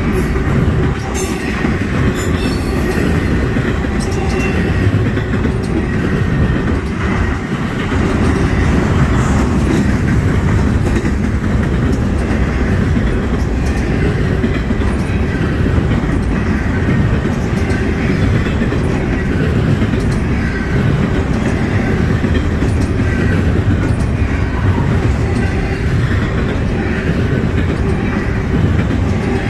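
Double-stack intermodal freight train rolling past, a steady rumble of steel wheels on the rails, with faint high wheel squeals now and then.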